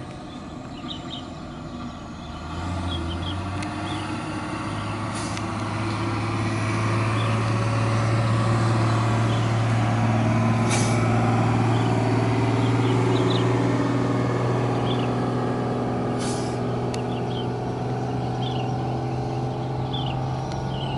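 AgustaWestland AW119 helicopter running, its low steady tone stepping up in pitch about two and a half seconds in and growing louder over the next several seconds before holding steady. Birds chirp faintly throughout.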